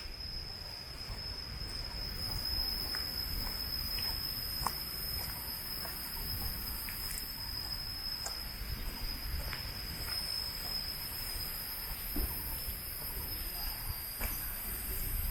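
Forest insects droning, a steady unbroken high-pitched tone with a hiss above it, over a low rumble and a few faint clicks.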